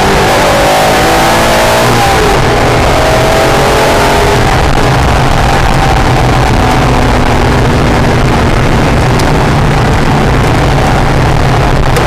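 Acura NSX's mid-mounted V6 driven hard on a race track, its pitch climbing over the first few seconds, then running steadier. Loud wind and road noise run under it.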